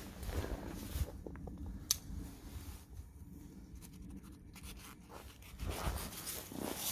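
Rustling and crinkling of a foil-wrapped potato packet being handled and unwrapped, with a sharp click about two seconds in and louder rustling near the end.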